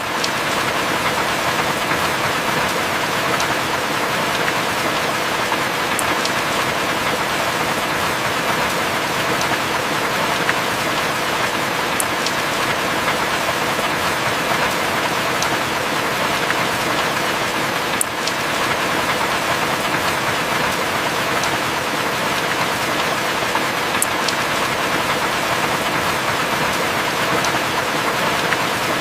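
Heavy rain falling steadily, an even hiss with no thunder, and a faint high tick about every six seconds.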